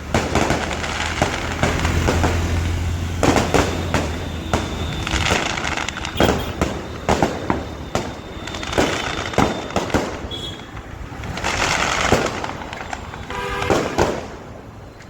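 Firecrackers going off in quick, irregular succession: many sharp bangs over a continuous crackling haze.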